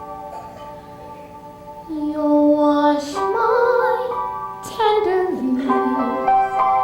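Sustained keyboard chords, then a female voice comes in about two seconds in, singing a slow ballad with held notes over the accompaniment.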